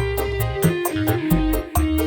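Live band music through a PA: an instrumental with a fast, steady beat of cymbal ticks, deep repeated bass notes and a plucked-string melody.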